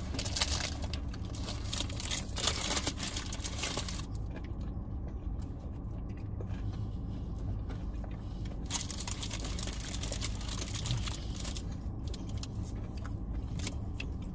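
People chewing bites of a chicken sandwich with crispy Parmesan crisps, with crinkly rustling and crunching in two stretches, at the start and again after about nine seconds. A steady low hum runs underneath.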